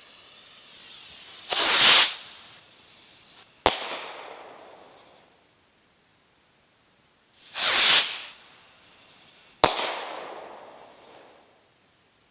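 Two Giant Texas Pop Rockets fired one after the other. Each gives a loud whoosh at lift-off and then a single sharp pop about two seconds later that echoes away; a faint fuse hiss comes before the first launch.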